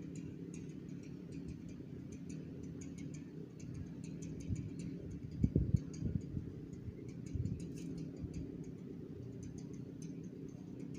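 Irregular light, high clicks and ticks over a steady low rumble, with a few heavier thumps about five and a half seconds in.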